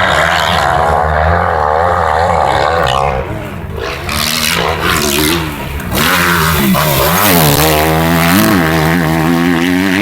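Motocross bike engines revving hard, their pitch rising and falling again and again as the riders work the throttle around the track. The sound drops back for a few seconds in the middle.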